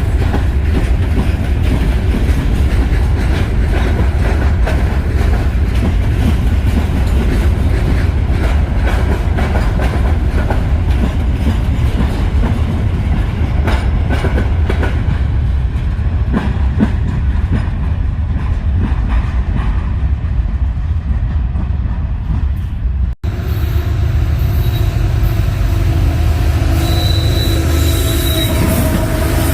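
Freight train cars rolling past with a loud, steady low rumble and wheels clacking over rail joints. The sound breaks off for a moment about 23 seconds in; after that, thin steady tones of wheels squealing on the rail sit over the rumble near the end.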